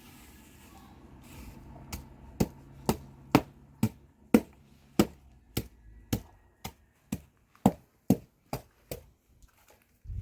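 A steady series of sharp blows, about two a second, beginning about two seconds in and continuing for some seven seconds, like something being struck over and over.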